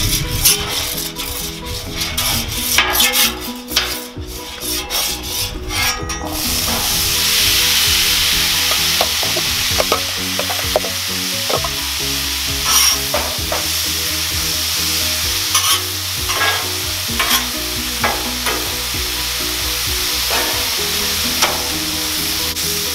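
Metal spatula scraping and clicking on the steel top of a Blackstone griddle, then, about six seconds in, diced carrots and green beans start sizzling on the hot griddle, a steady frying hiss with occasional spatula taps.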